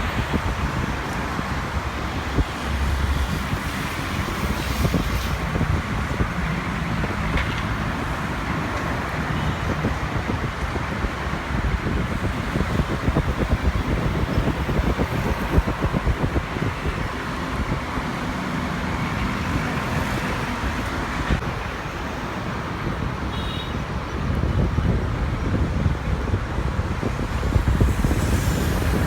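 Steady rumbling engine noise, growing somewhat louder about five seconds before the end.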